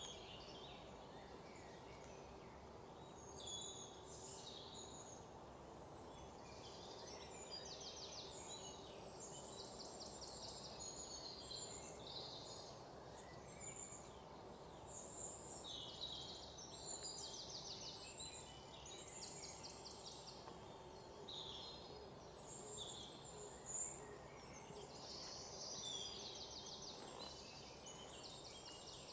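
Faint birdsong from several birds, with quick chirps and rapid trills throughout, over a steady low hum of background noise.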